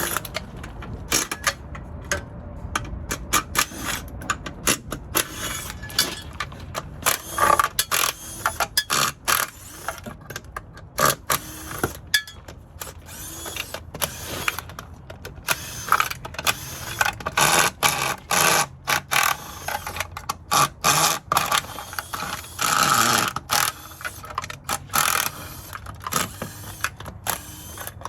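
Hand tools working on the metal of a salvaged 4L60E automatic transmission: dense, irregular clicks, clanks and ratchet-like rattles, with a few short louder bursts, the longest about a second long near the end.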